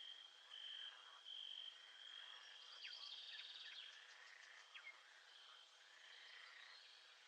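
Faint nature ambience: a high, steady insect trill that comes and goes in stretches, with a few short chirps around the middle.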